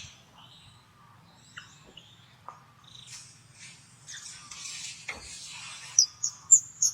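Macaques calling: scattered short squeaks and clicks, a harsh, hiss-like stretch about four seconds in, then a quick run of sharp, high squeaks near the end.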